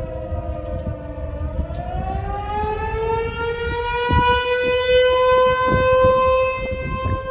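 Outdoor tornado warning siren wailing. Its pitch sinks for the first second and a half, then climbs and holds high, over a steady low rumble.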